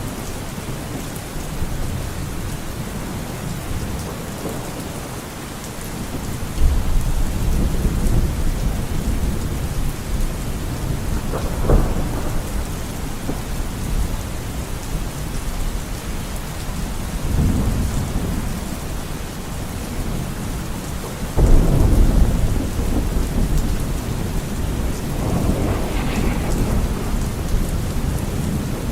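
Rain falling steadily through a thunderstorm, with thunder rumbling in several times. The loudest rumble starts suddenly about two-thirds of the way in.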